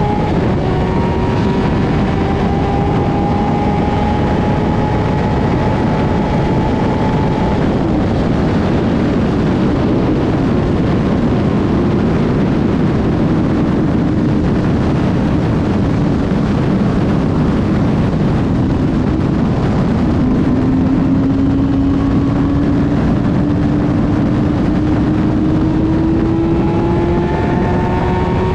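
2008 Kawasaki ZX-10R's inline-four engine pulling at high speed under heavy wind rush, its note climbing slowly, then starting lower again and climbing once more in the later part.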